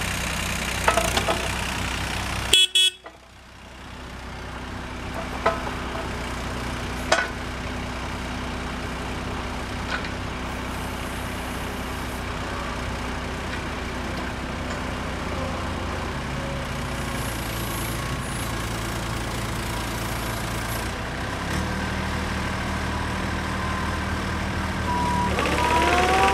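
A 2011 Volvo ECR38 mini excavator's diesel engine running steadily. Its pitch steps a few times and climbs near the end as the revs come up. There are a few light clicks and a brief dropout about three seconds in.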